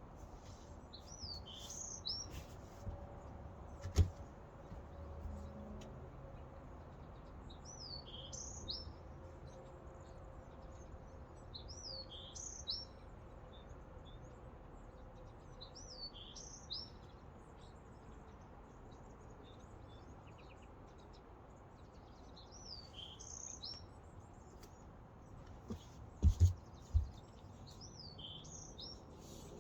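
A songbird repeating the same short, high phrase of quick up-and-down whistles every few seconds over faint outdoor noise. A sharp knock about four seconds in and a few louder low knocks near the end.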